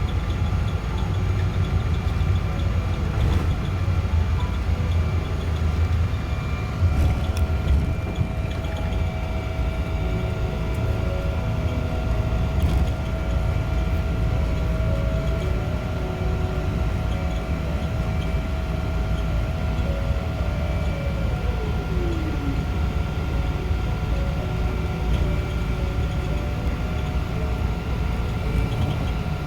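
Cabin noise of a Boeing 777-200 on the ground after landing: a steady rumble from the engines and wheels with a few steady tones. One tone glides down about 21 seconds in.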